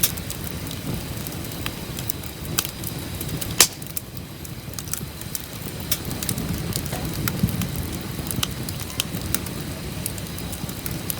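Wood campfire crackling, with sharp pops scattered irregularly over the low, steady sound of the burning, and one louder pop about three and a half seconds in.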